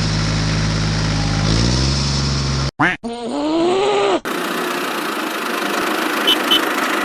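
A small motor running with a steady hum, its pitch stepping down about one and a half seconds in, then cut off abruptly. A short groaning voice follows, then a steady hiss with two quick high beeps near the end.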